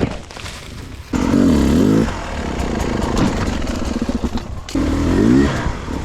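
Dirt bike engine revving hard in bursts, its pitch dipping and climbing again. It cuts in abruptly about a second in, breaks off briefly near the end and comes back with another rev.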